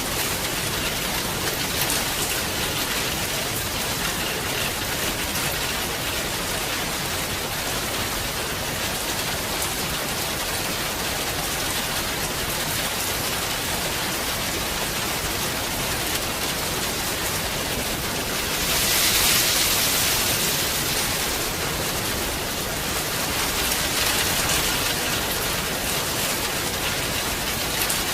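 Heavy rain falling steadily, with a louder, hissier surge of rain for a couple of seconds about two-thirds of the way through.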